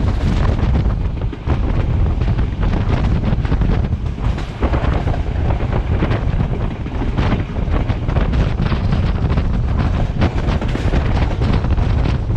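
Heavy wind buffeting the microphone on board a moving train, over the steady low rumble of the train running along the track, with scattered short clicks.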